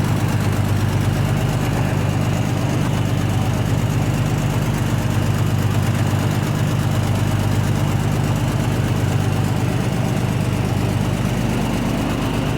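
Vertical wind tunnel for indoor skydiving running steadily: a constant rush of air over a low, unchanging hum from the big fans.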